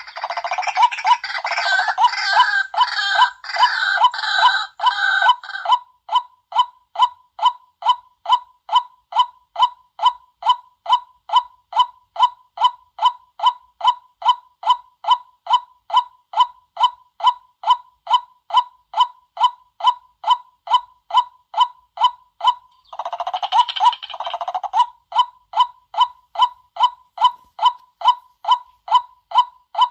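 White-breasted waterhen calls: a monotonous note repeated about two and a half times a second, with harsh chattering over it for the first six seconds and again near the end.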